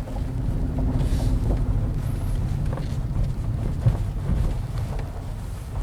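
Steady low road and tyre rumble heard inside the cabin of a 2017 Ford Fusion Hybrid driving along on low-profile Michelin tyres.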